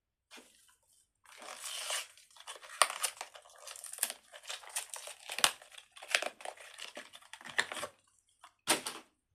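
Plastic crinkling and crackling as fidget toys are handled: a dense run of irregular rustles and sharp little clicks for several seconds, then one short crackle near the end.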